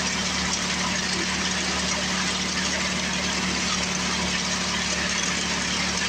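Tecumseh engine of an old Craftsman 24-inch snowblower running steadily, with an even, unchanging note.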